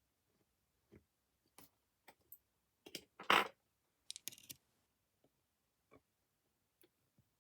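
Scattered light clicks and knocks of a model locomotive being handled and taken apart by hand. The loudest is a short scrape about three seconds in, followed by a quick run of clicks.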